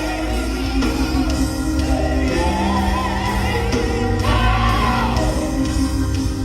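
Live gospel music: a voice singing over a band with a heavy, steady bass line.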